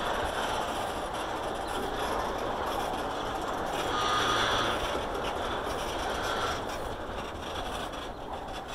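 Freight train tank cars rolling slowly past, their wheels running on the rails with a steady rumble and clatter. Brief wheel squeals come about four and six seconds in.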